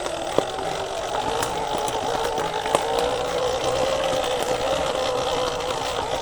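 Sur-Ron Ultra Bee electric dirt bike riding along a trail: a steady electric motor and drivetrain whine that drifts slightly in pitch with the throttle, with a few short knocks from bumps on the trail.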